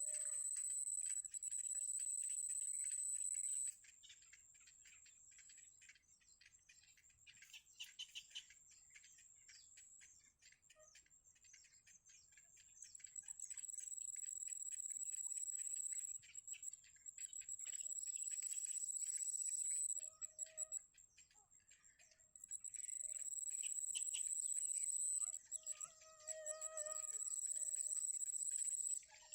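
High, thin cheeping of nestling birds in the nest. A steady high-pitched whine comes and goes several times, with a few short lower calls near the end.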